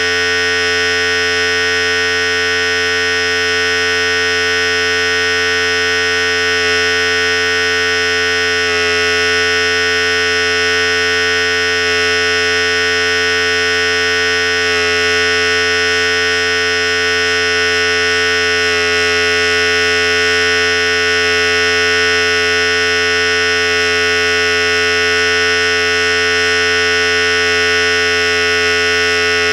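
Philips Series 5000 electric hair clipper running continuously with a steady buzz, its tone shifting slightly a few times.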